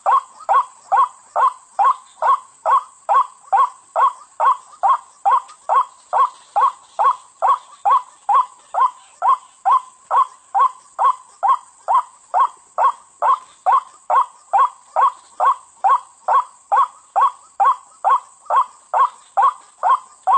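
White-breasted waterhen (ruak-ruak) calling: a long, even series of short, harsh notes, about two a second, the repeated call used to lure the bird.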